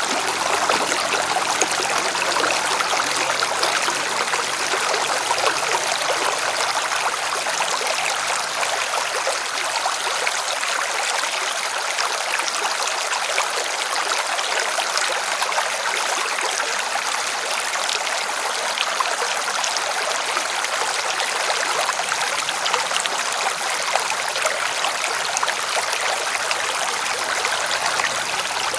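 River water splashing and rushing over rocks, a steady full hiss with fine splashes throughout.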